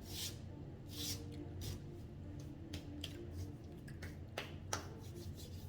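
Close-up eating sounds: wet mouth clicks and smacks while chewing, with two sharper clicks near the end.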